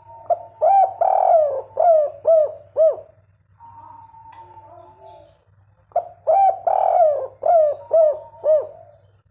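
Spotted dove cooing: two phrases about six seconds apart, each a quick run of about five rounded coos that rise and fall in pitch. A low steady hum runs underneath.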